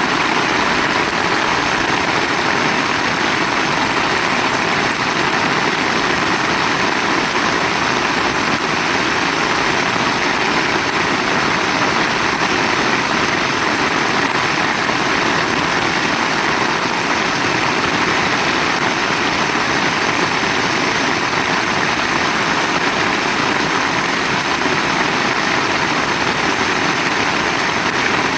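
Heavy rain falling steadily, an even hiss with no pauses or separate strikes.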